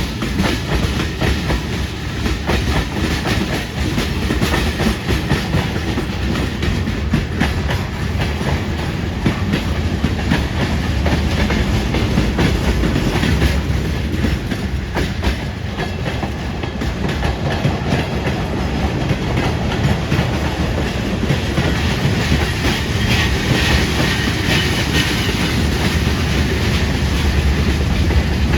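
Freight train cars rolling past, their wheels clattering steadily over the rail joints.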